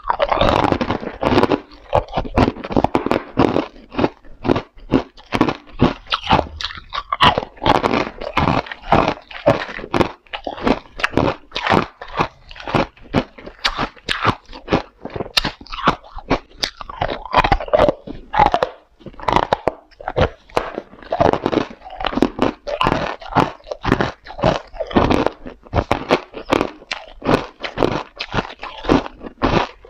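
Hard ice being bitten and chewed close to the microphone: a rapid, irregular run of loud, sharp crunches, several a second.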